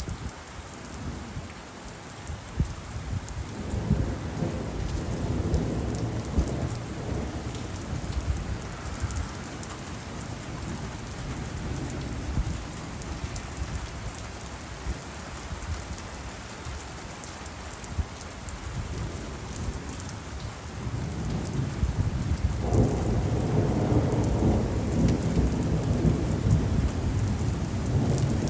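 Steady rain falling with rolling thunder: one long rumble a few seconds in, and a louder, longer roll building from about three-quarters of the way through.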